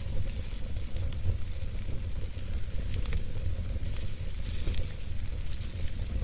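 Wood fire burning in a fireplace: a steady hiss and low rumble with frequent small crackles and pops.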